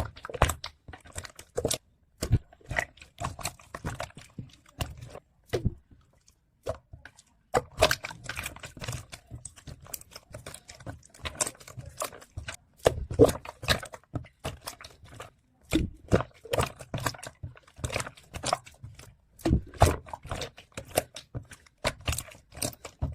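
Slime being squished, pressed and stretched by hand, making quick irregular clicks, pops and squelches.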